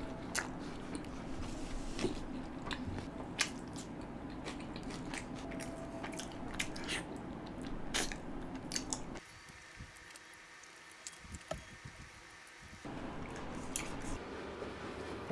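Close-miked mouth sounds of a man eating butter chicken with butter naan by hand: chewing, with many short wet clicks and lip smacks. The background drops quieter for a few seconds about two-thirds of the way through.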